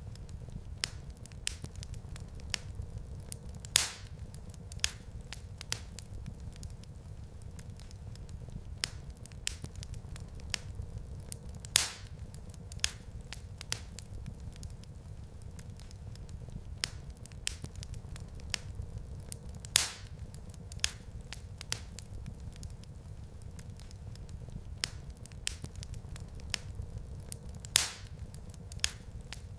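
Fire crackling in a fireplace: a steady low rumble under frequent small crackles, with a louder pop about every eight seconds.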